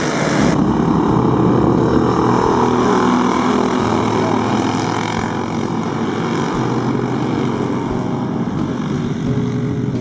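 Several racing go-kart engines running together at speed, a dense steady buzz of small engines that eases slightly after a few seconds.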